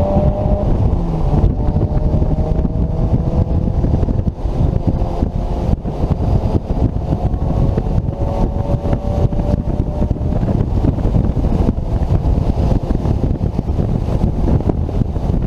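Turbocharged Mazda Miata NC engine pulling under load, its tone climbing slowly in pitch, under heavy wind buffeting and the rushing noise of tyres on a wet track. The engine tone fades about ten seconds in, leaving the wind and water noise.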